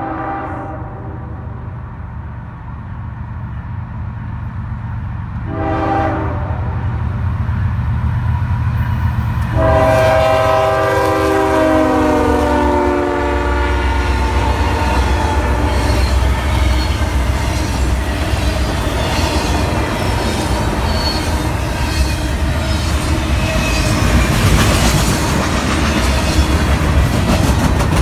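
A diesel freight locomotive's air horn sounds a short blast, then a long one whose pitch drops as the lead unit passes. The locomotives' diesel engines and a long train of freight cars then rumble past, clattering over the rail joints.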